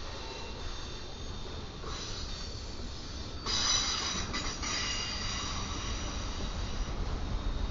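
Freight train rolling past with a low rumble, its wheels squealing on the rails in high, steady tones that start about two seconds in and grow much louder about a second and a half later.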